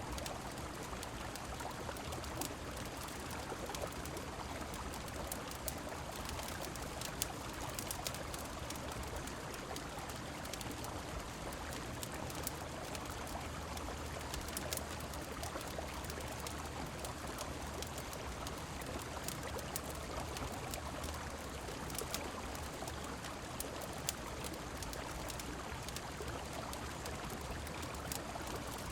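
Steady rushing of a flowing river mixed with rain, with scattered sharp ticks and crackles throughout.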